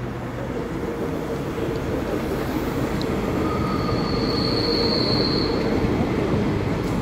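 Diesel railcar approaching on a curve, its engine and wheel rumble growing louder, with a brief high-pitched wheel squeal about four seconds in.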